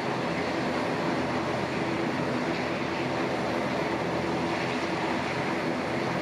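Boeing 737-800's CFM56 turbofan engines running, a steady rush with a faint low hum that holds even throughout.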